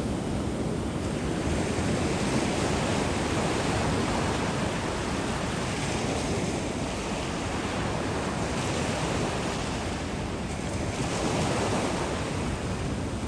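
Ocean surf washing onto a beach, a continuous rush of breaking waves that swells and eases over several seconds.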